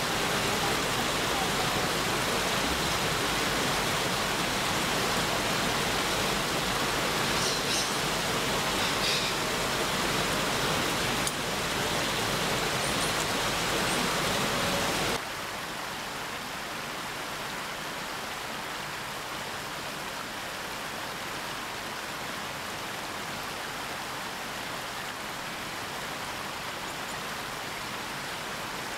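Steady hiss of rain falling, with a few faint, brief high chirps over it; the hiss drops noticeably in level about fifteen seconds in.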